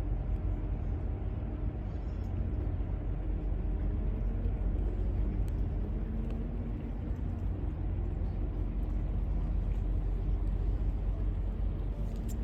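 Ships' whistles sounding at a distance, several steady low tones overlapping faintly under a heavy low rumble.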